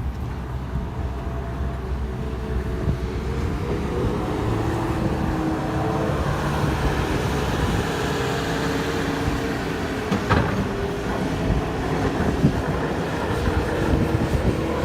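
Steady low rumble of a vehicle in motion, with a hiss that swells in the middle and one brief knock about ten seconds in.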